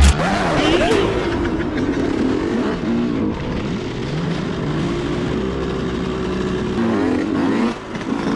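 125cc two-stroke dirt bike engines being ridden hard, the pitch repeatedly climbing as the throttle is opened and dropping as it is backed off.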